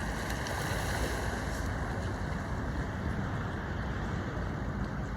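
Steady rushing of wind and sea water, with wind buffeting the microphone.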